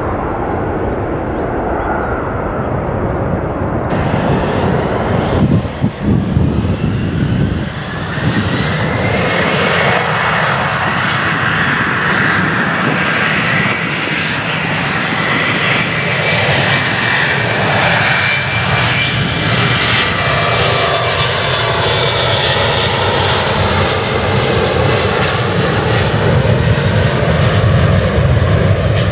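Jet airliner engines at takeoff thrust: a loud, steady rushing roar, with a high engine whine that sets in about a third of the way through and the sound growing louder near the end.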